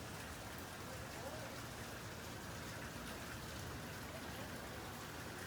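Steady rain falling during a thunderstorm: an even, unbroken hiss of rain on surfaces, with no thunder.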